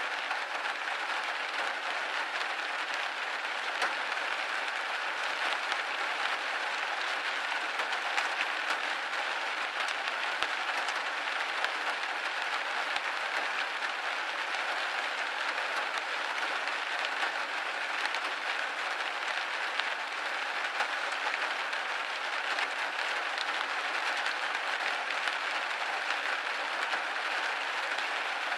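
Steady rain pattering on a window pane, a dense even hiss of many small drop ticks.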